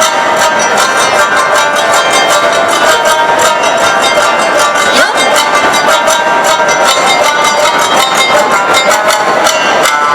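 Awa-odori festival music played by a marching ensemble: plucked shamisen and flute over a fast, even beat of clanging kane gongs and drums.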